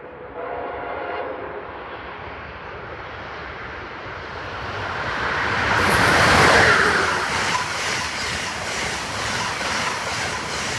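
Amtrak Northeast Regional passenger train passing the platform at speed. The rush of the train builds to its loudest about six seconds in, then goes on as a steady rumble with regular clicks of wheels over the rails as the cars go by.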